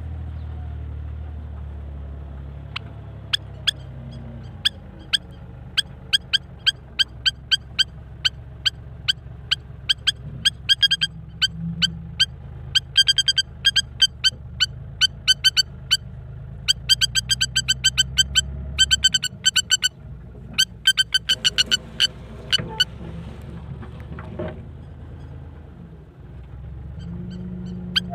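A bird making sharp, ringing clicks: single strokes about a second apart at first, then quick runs of many. Under them runs a low steady rumble like distant traffic.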